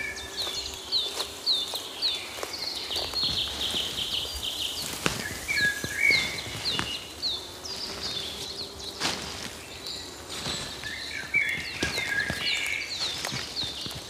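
Songbirds calling: many short, quick downward-sliding chirps, repeated over and over, with a lower warbled phrase now and then. Irregular footsteps and clicks sound along a path beneath them.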